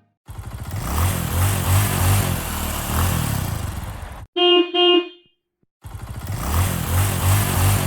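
Truck engine sound effect running with a pulsing rumble, cut by two short horn honks in quick succession about four and a half seconds in. After a brief gap the engine sound starts again.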